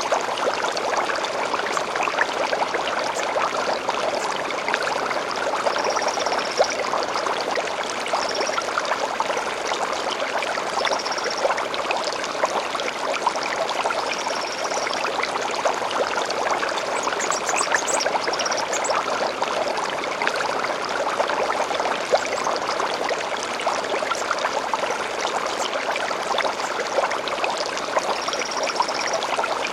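Gentle stream babbling steadily over stones, with faint short high bird chirps every few seconds and a quick run of rising notes about seventeen seconds in.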